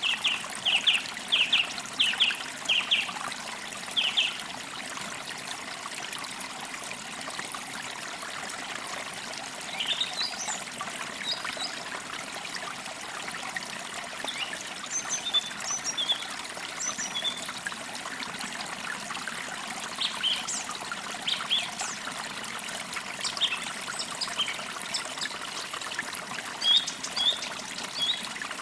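Songbirds chirping over a steady trickling stream: a quick run of chirps at the start, then scattered short calls.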